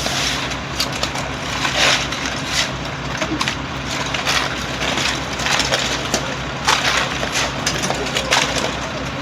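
Tractor engine running steadily while it gathers flood-deposited soil, with repeated crunching and scraping bursts every second or so as the earth and debris are pushed and scooped.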